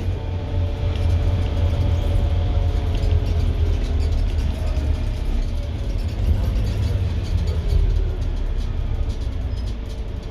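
Scania N230UD double-decker bus running under way, a heavy low engine drone with a few whining tones above it that sink slightly in pitch over the first few seconds.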